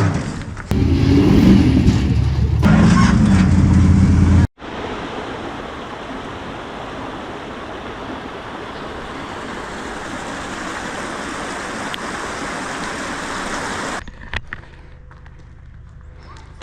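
A rock-crawling buggy engine revving hard for about four seconds, then an abrupt cut to a steady rushing noise that drops much quieter about two seconds before the end.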